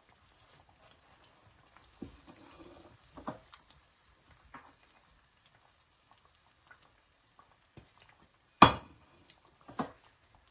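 Balushahi frying gently in ghee with a faint sizzle, while a slotted spatula clatters against the frying pan as fried pieces are lifted out. A few light knocks come early, and one sharp knock near the end is the loudest sound.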